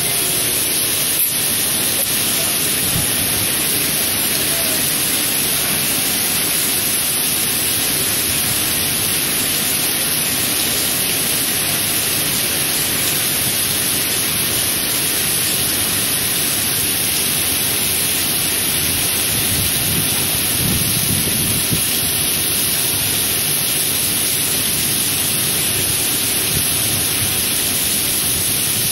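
Heavy rain from a typhoon falling steadily in a dense, even hiss, with a brief low rumble about two-thirds of the way through.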